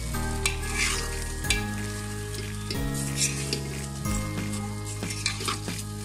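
Onion and spice masala (ginger and garlic paste, bay leaf, whole spices) sizzling in hot oil in a pressure cooker pot, stirred with a spoon that scrapes the pot in repeated irregular strokes.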